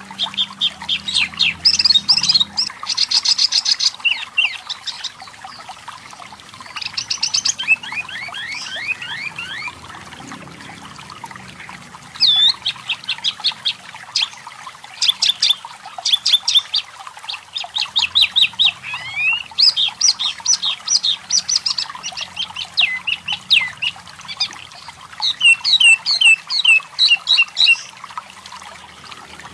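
Wambi mini (tepus lurik) singing in quick bursts of chirps and rapid trills, many notes sweeping upward, with short pauses between phrases.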